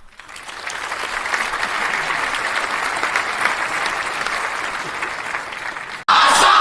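Audience applauding, swelling over the first second and holding steady. About six seconds in it cuts off abruptly and loud dance-beat music starts.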